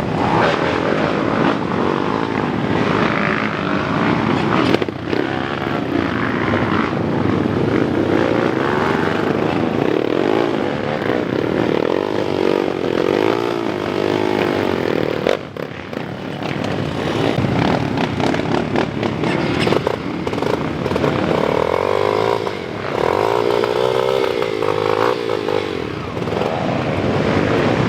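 Motocross dirt-bike engines revving hard, their pitch rising and falling over and over as the bikes work up a steep climb.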